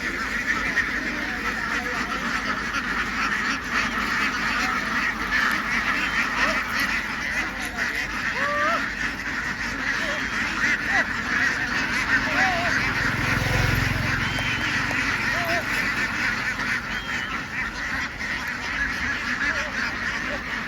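A large flock of domestic ducks calling continuously, many overlapping quacks making a dense din. About two-thirds of the way through, a brief low rumble sounds beneath it.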